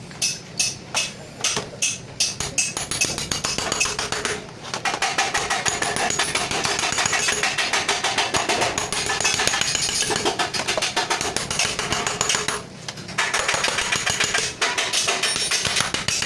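Hammering on metal: separate blows about three a second at first, then a fast, continuous run of strikes with a short break near the end.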